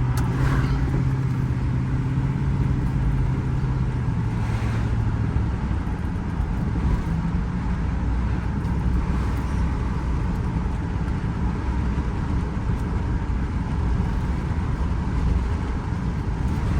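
2004 Ford F-150's 5.4-litre V8 and road noise during a road test. A steady engine drone is heard for the first five seconds or so, then gives way to an even rumble. The engine is running smoothly, its cylinder-8 misfire and bucking gone after the ignition coil was replaced.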